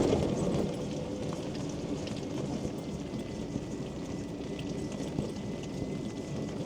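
Rain on the canopy of a Quingo Toura Mk2 mobility scooter as it drives along: a steady rain patter with the scooter running underneath it. A louder bump comes right at the start.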